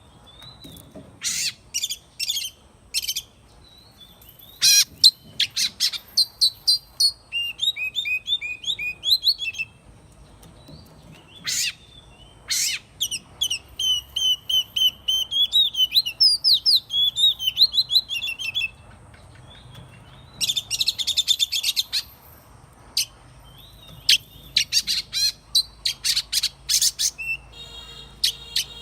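Oriental magpie-robin singing: a varied run of clear whistled phrases, fast rippling trills and sharp short chip notes, broken by brief pauses.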